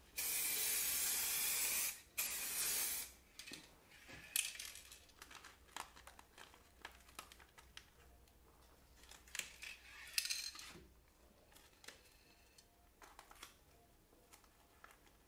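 Aerosol spray-paint can spraying in two bursts, a steady hiss of about two seconds and then a shorter one. After that come quieter rustling and crackling as masking paper and tape are peeled off the freshly painted plastic trim strip.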